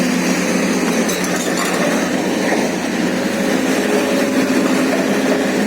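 Excavator's diesel engine running steadily, with a few faint knocks about a second in.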